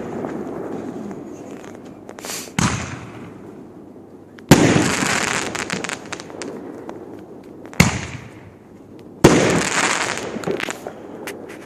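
Multi-shot consumer fireworks battery going off: four sharp bangs a couple of seconds apart, each trailing off in a fading crackle of bursting stars. The bang about four and a half seconds in is the loudest.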